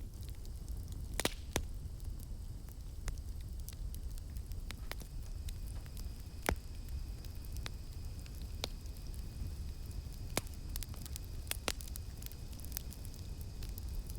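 Campfire burning: sharp pops and crackles of wood scattered irregularly over a low steady rumble of the flames. Behind it, a faint steady high-pitched drone of cicadas.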